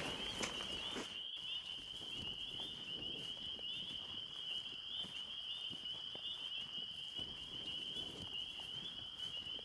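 Insects trilling steadily at a high pitch in a fast pulse, with faint footsteps on dry ground underneath.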